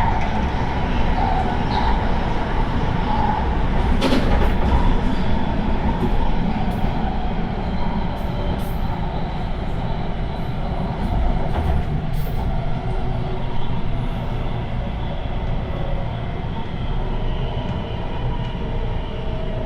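MTR Tung Chung Line CAF electric train running, heard from inside the car: a steady rumble of wheels on rail with a faint motor whine. Short sharp clicks come several times, most between about 4 and 13 seconds in.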